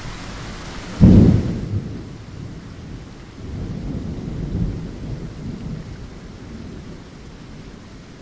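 Rain falling with a steady hiss, broken about a second in by a sudden loud thunderclap. Rolling low thunder rumbles follow a couple of seconds later while the rain hiss thins out.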